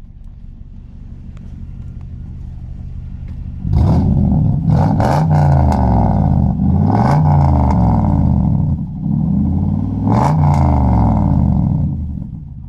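Toyota Soarer V8 with a straight-through exhaust, first idling and building slowly. A few seconds in it turns loud, revving up and back down about three times, then drops back toward idle near the end.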